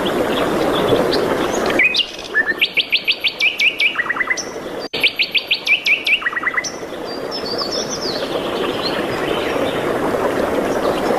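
Songbird singing two phrases of rapid, evenly spaced high notes, with scattered chirps afterwards. A steady rushing background stops abruptly about two seconds in and comes back after the song.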